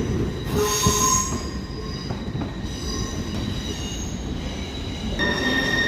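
Train rumbling along the track with squealing wheels, high steady squeal tones over the rumble, a fresh squeal setting in near the end.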